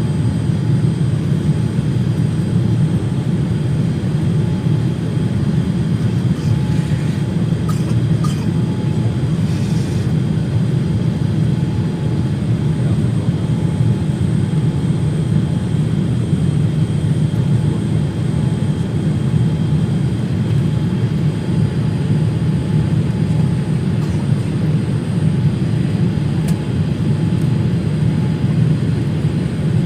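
Steady low rumble of engine and airflow noise inside the cabin of a Boeing 787-9 airliner, even throughout, with a few faint clicks.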